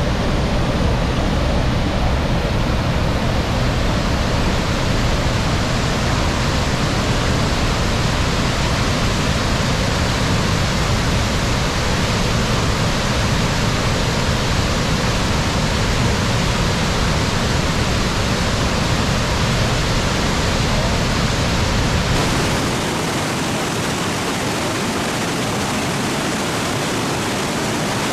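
Athabasca Falls pouring, a loud steady rush of falling water. About 22 seconds in it changes to a slightly quieter rush with much less deep rumble.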